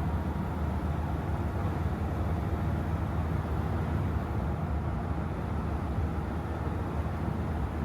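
2006 T1N Sprinter van on the move: a steady low engine and road rumble with no change in pace.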